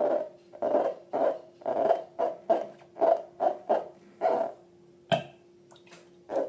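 Slime squeezed and pressed by hand, making a rapid run of squelching, hollow pops about three a second. They stop after about four and a half seconds, and a sharp click follows about five seconds in.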